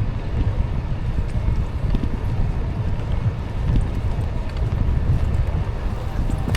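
Wind buffeting the microphone of a moving e-bike rider: a steady, unsettled low rumble.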